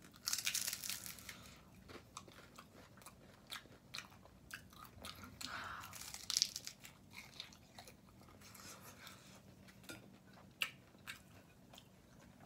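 Close-miked eating of a taco: a loud crunchy bite about a second long right at the start, then quieter chewing with scattered crackles and mouth clicks.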